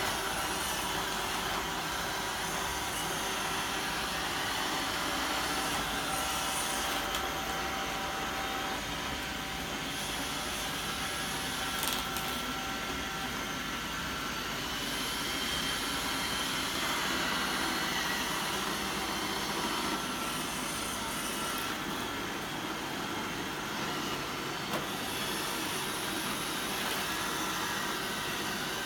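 iRobot Roomba 770 robot vacuum running, a steady whirring hum from its vacuum motor and brushes, with one brief click partway through.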